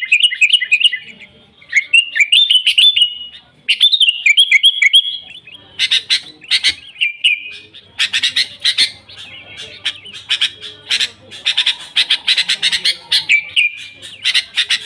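Sooty-headed bulbuls (kutilang) singing: three short bubbly whistled phrases in the first five seconds, then rapid harsh chattering with a few whistled notes for the rest.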